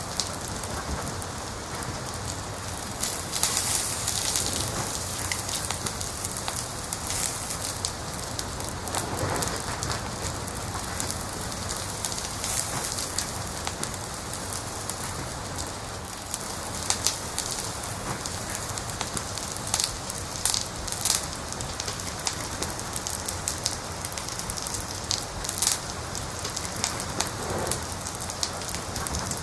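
Wood fire crackling, with a steady hiss and scattered sharp pops, a few of them louder than the rest.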